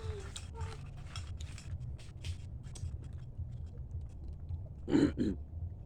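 Close-up eating: chewing and crunching of food in irregular crackles, with a brief loud double burst about five seconds in.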